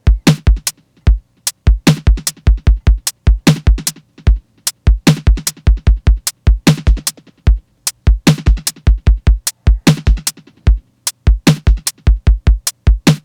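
Electronic drum-machine beat from a software synth setup: a busy, repeating pattern of deep kick thumps and sharp clicky hits, over a low synth tone.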